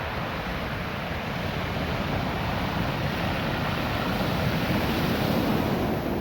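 Ocean surf washing over a beach of small, smooth, rounded stones, a steady rushing wash that swells to its loudest about four to six seconds in.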